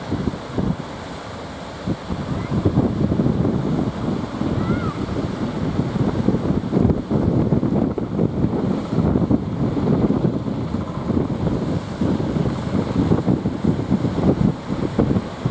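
Strong wind buffeting the microphone in uneven gusts, over the wash of surf.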